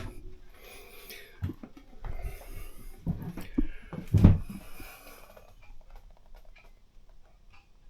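Handling noises in a small boat cabin: rustling and a few dull knocks in the first half, then a few faint ticks.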